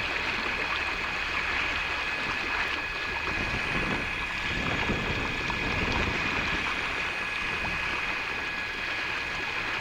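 Motorised angling kayak under way: steady rush of water along the hull, with a steady high whine over it.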